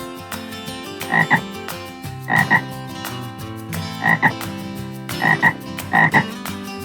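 A frog croaking in five double calls, each two short notes in quick succession, over background guitar music.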